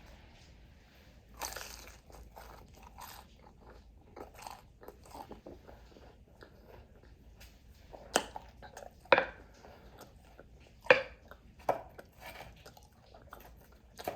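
Close-miked biting and chewing of crispy fried food: a string of sharp crunches and wet chewing, with the loudest bites coming in the second half.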